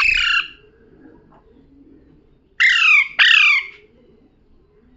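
Pet parrot calling. The tail of one call ends just after the start, then two harsh calls come in quick succession a little over halfway through, each falling in pitch.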